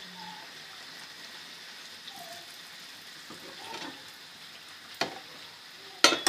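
Bread slices shallow-frying in ghee in a pan over low heat, a steady soft sizzle. A sharp click comes about five seconds in, and a few knocks of a utensil against the pan come near the end.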